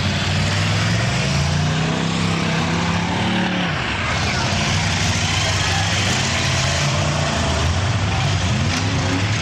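Demolition derby car engines running loudly and revving. The pitch falls away a few seconds in and climbs again near the end.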